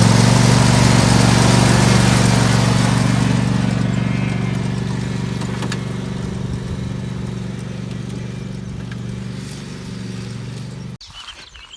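John Deere riding lawn mower's engine running steadily and slowly growing fainter as it moves away, then cutting off abruptly near the end.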